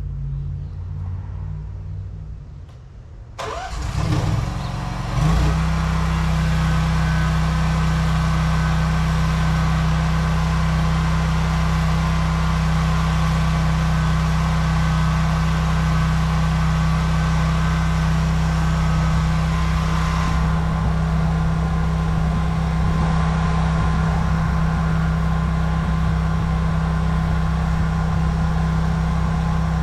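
A pressure washer's gasoline engine starts after a low rumble, revs up within a couple of seconds and then runs steadily at high speed.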